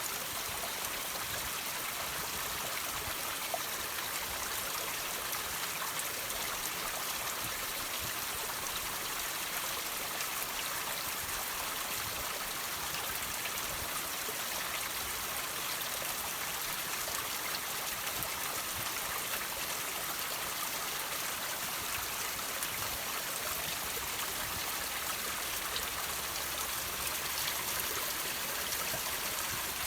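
Water trickling and dripping from rocks: a steady running-water sound with scattered drips.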